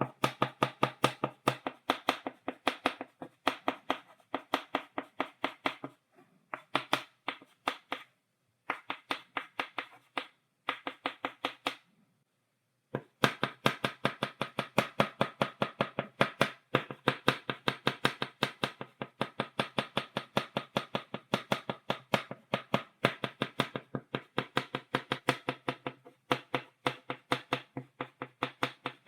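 Chalk tapped rapidly against a blackboard, stippling dots: quick runs of sharp taps, several a second, broken by short pauses, with one stop of about a second in the middle.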